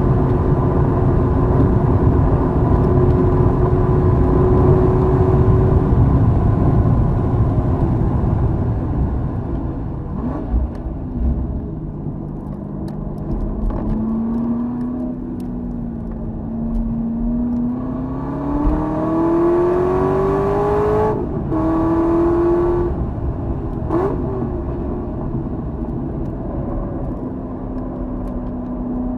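Corvette Z06's V8 at racing speed on a track. For the first stretch there is a steady, loud drone with heavy noise. It then quietens as the car slows for a corner, and the engine pulls hard with its pitch rising, breaking off for an upshift about two-thirds of the way through before climbing again briefly.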